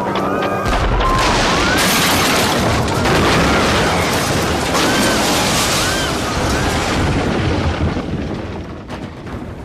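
Helicopter crash: a deep boom about a second in, then a loud, dense rumble of crashing noise that fades away near the end. Short high rising-and-falling cries sound through it.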